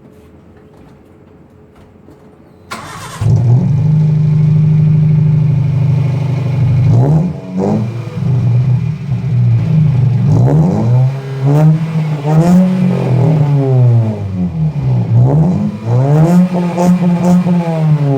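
Suzuki Cultus three-cylinder engine breathing through a new aftermarket exhaust: it is started almost three seconds in, settles into a steady loud idle, then is revved repeatedly, each blip rising and falling in pitch, with a longer rev near the end.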